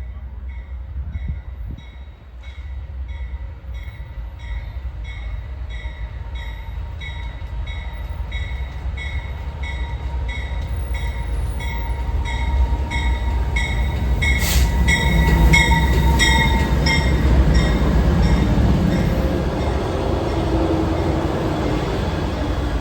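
A train approaching and passing, its rumble building to its loudest about two thirds of the way in. Throughout, a railroad grade-crossing bell rings at about two strikes a second.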